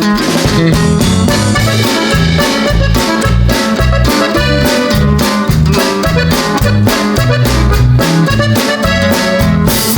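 Upbeat background music with accordion, a steady drum-kit beat and a walking bass line.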